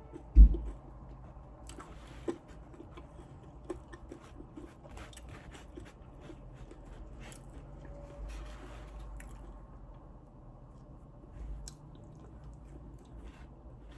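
Close-miked chewing and crunching of fried chicken wings, with scattered small clicks and smacks. A heavy low thump about half a second in is the loudest sound.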